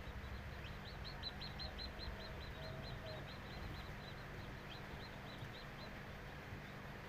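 Chick peeping in a rapid run of short, high, falling notes, about four or five a second, that stops about six seconds in. A steady low hum runs underneath.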